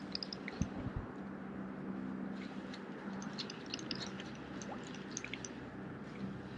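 Light water lapping and dripping, with scattered faint ticks and a couple of soft knocks about half a second and a second in, over a low steady hum.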